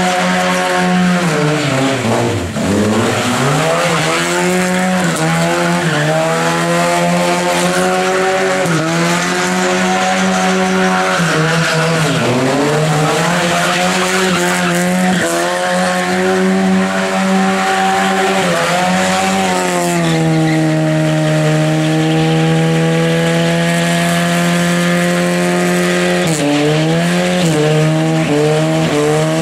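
Lada 2107's four-cylinder engine held at high revs as the rear tyres spin and squeal through donuts. The revs dip briefly and pick up again about two seconds in, around twelve seconds and near the end.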